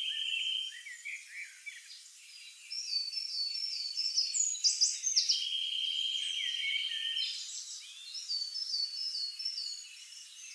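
Several wild birds singing together: short chirps, runs of repeated high notes and a steady buzzing trill.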